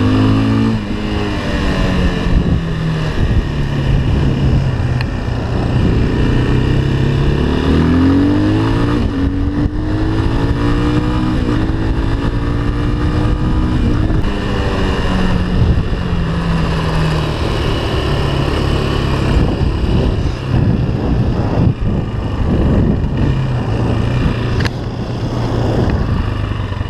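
Engine of a small off-road vehicle being ridden, revving up and dropping back again and again as the throttle opens and closes, over a steady rush of road noise.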